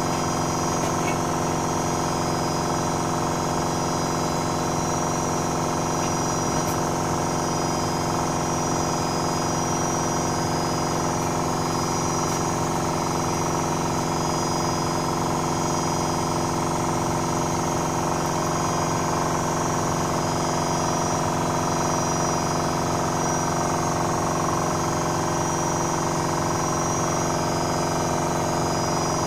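Privileg Sensation 9245 washing machine running with its drum spinning at a steady speed: a constant motor hum and whine that holds one pitch throughout.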